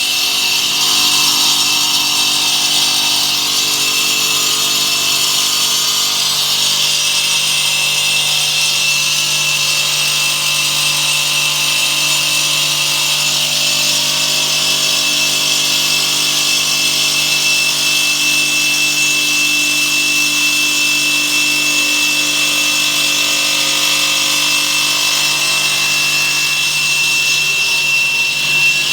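Automatic stone-cutting machine's saw blade cutting through stone under automatic feed, a steady grinding noise with a constant high whine.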